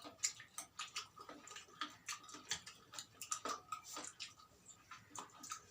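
Eating rice and chicken curry by hand: an irregular run of small wet clicks and smacks from mouth and fingers.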